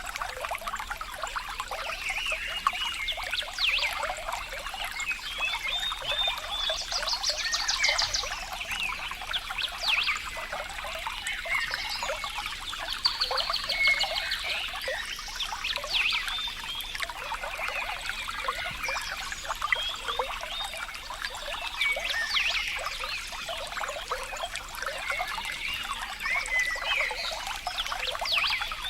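Water trickling and dribbling over stones, with many small animal calls over it: repeated chirps and a few rapid trills.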